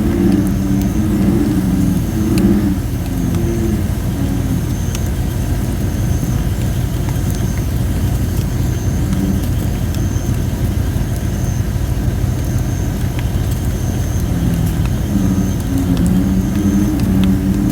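Campfire of thin, under-dried red robin (Photinia) wood burning with a few scattered crackles and pops over a steady low rumble. American bullfrogs call in deep, pulsing croaks during the first few seconds and again from about two-thirds of the way through.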